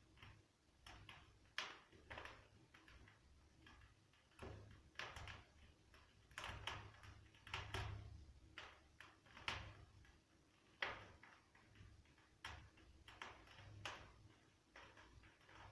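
Spruce firewood burning in a Meta Elba 700P fireplace insert's firebox, giving faint, irregular crackles and pops.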